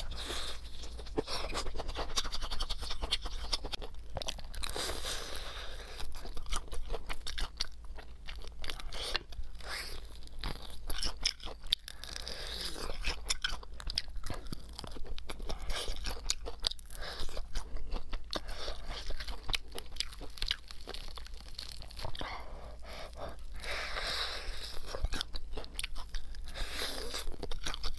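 Close-miked biting and chewing of crispy deep-fried chicken: a continuous run of sharp crunches and crackles from the fried coating, growing louder in spells every few seconds.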